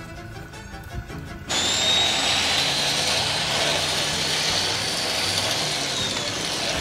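A small electric motor switched on about a second and a half in, running steadily with a high whine over a loud rushing noise.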